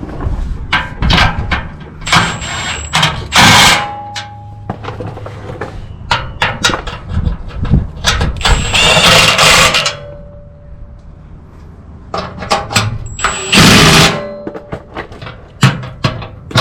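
3/8-inch cordless impact wrench running in the bolts of a steel skid plate in bursts of about a second, with clicks and knocks of the plate and tools between bursts.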